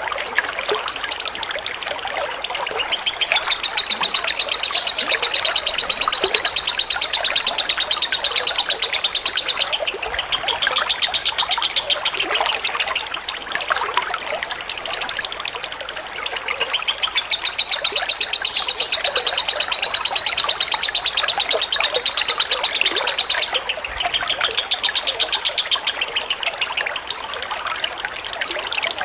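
Lovebird singing a long, very fast chattering trill with high held notes, in two long phrases, over steadily trickling water.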